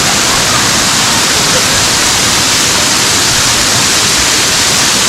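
Waterfall pouring, a steady loud rushing of water with no let-up.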